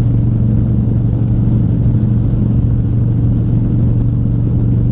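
Harley-Davidson Twin Cam 103 V-twin engine running at a steady pace, a constant low drone whose pitch does not change.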